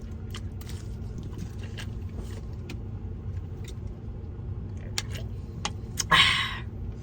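Eating sounds: chewing with small mouth clicks and food or wrapper crinkles over a steady low hum, with a short rustle about six seconds in.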